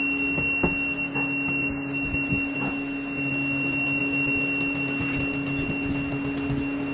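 Steady machine hum with a constant high whine, with scattered knocks and, about two-thirds of the way in, a quick run of light ticks.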